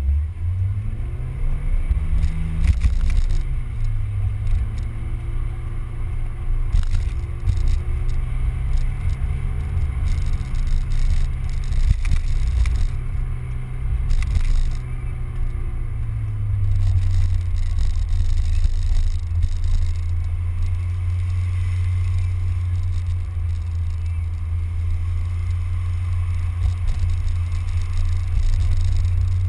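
Mazda Miata's four-cylinder engine under way: the revs climb over the first few seconds, drop sharply just after three seconds, hold steady, then fall to a lower steady pitch about halfway through, over a steady hiss of road and wind noise.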